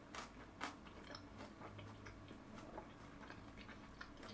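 Faint chewing of a mouthful of tonkatsu kimbap and chewy jjolmyeon noodles: soft wet mouth clicks, two louder ones in the first second.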